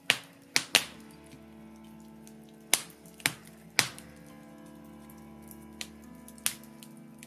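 Birch-wood fire in a fireplace crackling, with sharp irregular pops and snaps, several coming in quick pairs. Soft sustained background music plays underneath.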